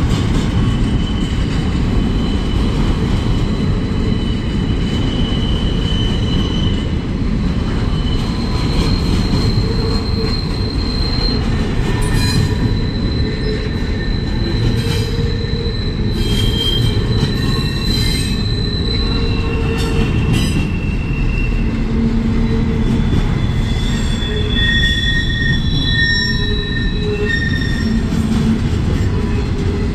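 Double-stack intermodal train of loaded container well cars rolling past close by: a steady low rumble of wheels on rail, with high-pitched wheel squeals that come and go, each lasting from a second to a few seconds.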